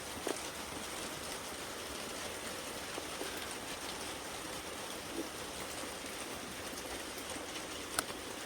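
Steady rain falling, an even hiss with no thunder, and a single small tick near the end.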